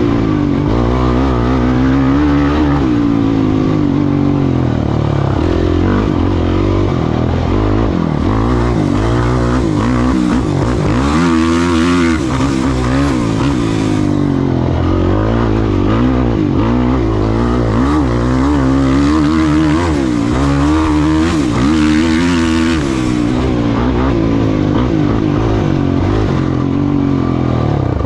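Off-road race vehicle's engine running hard, its pitch rising and falling over and over as it revs up and backs off through the course.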